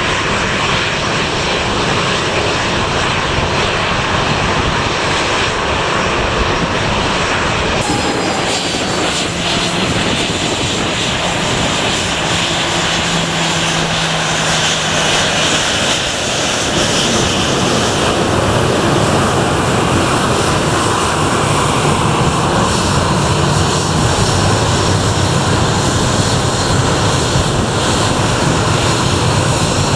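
Departing airliner's engines at high power, a loud steady rumble and hiss that grows a little louder about halfway through.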